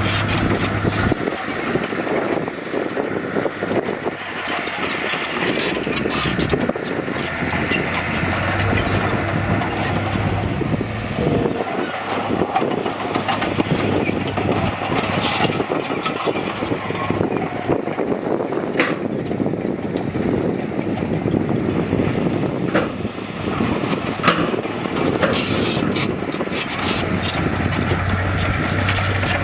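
Heavy diesel machinery, dump trucks and a bulldozer, running steadily under load, with scattered sharp knocks and clanks.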